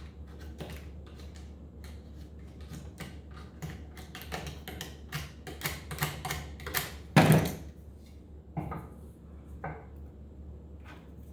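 A blade cutting and prying off the hardened glue-and-felt layer on the end of a wooden Steinway piano keystick, giving a run of small, irregular crackling clicks and scrapes, with one louder crack about seven seconds in.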